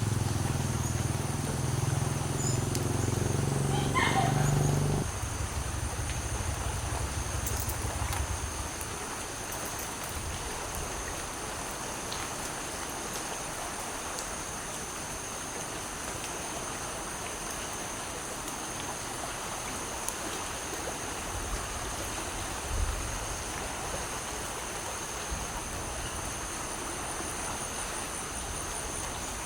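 Steady rushing of floodwater, with a constant chorus of insects shrilling high above it. A low droning hum sounds over it at first, then fades out after about five seconds.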